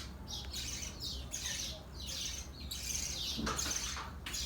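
Lovebirds chattering: a quick run of short, high-pitched chirps, several a second.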